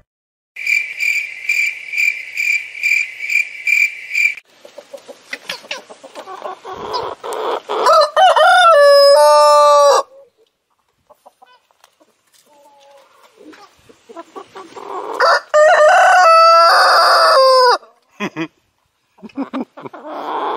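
A high electronic beeping, about two beeps a second for roughly four seconds, then a rooster crowing twice, with clucking around the crows.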